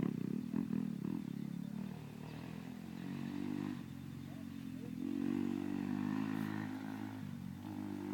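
Motocross motorcycle engines running, getting louder about three seconds in and again about five seconds in, then easing off briefly near the end. A few short clicks come in the first second.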